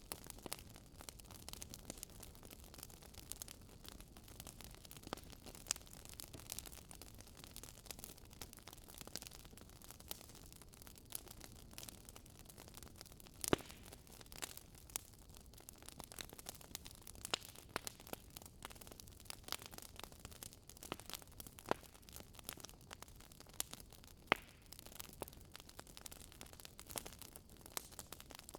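Wood fire crackling in a fireplace: a soft steady hiss with frequent small sharp pops at irregular intervals, two louder pops about halfway through and near the end.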